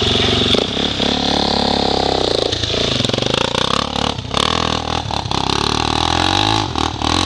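Off-road engines running and revving, the pitch rising and falling several times.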